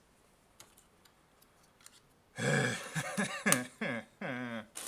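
A man's voice making wordless vocal sounds in several short falling-pitch pieces, starting about halfway in, after a stretch of near quiet with a few faint clicks.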